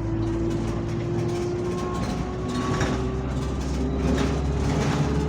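Alexander Dennis Enviro200 single-deck bus's diesel engine running under way, its pitch rising slowly as it pulls, with a faint high whine above it. Two short noisy rattles come about halfway through and near the end.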